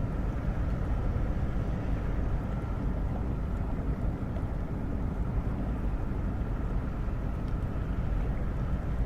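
Steady low rumble of a departing container ship, with wind buffeting the microphone and a faint steady whine above it.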